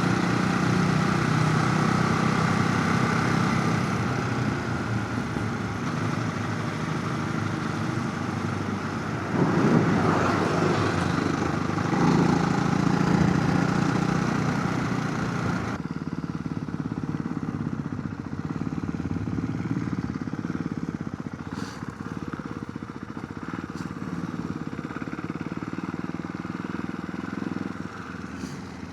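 Motorcycle engine running under way, heard with rushing wind at a helmet chin-mounted camera. The engine rises briefly about ten seconds in, and about two-thirds of the way through the high wind hiss drops away sharply, leaving the engine quieter and steadier.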